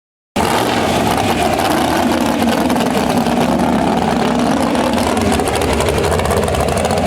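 Pulling tractor's engine running loud and steady, cutting in abruptly a moment after the start.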